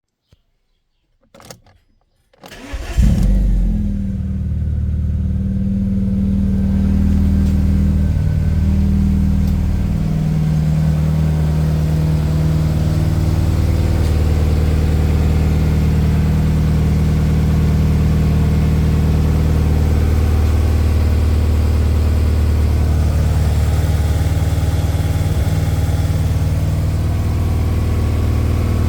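Alfa Romeo Twin Spark inline-four engine cold-starting: a short crank, then it catches about three seconds in with a burst of revs and settles into a steady idle. Its cam variator has just been rebuilt with a new spring and plastic washer and its hydraulic lifters cleaned, and it runs smoothly.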